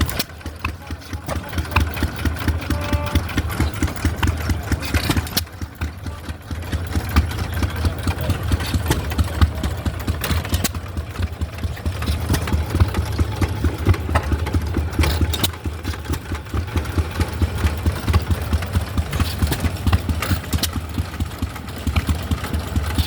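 Hit-and-miss stationary engines running, with rapid repeated beats over a steady low drone.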